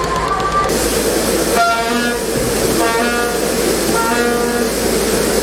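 A horn tooting three short times, about a second apart, over a steady engine drone and rushing noise.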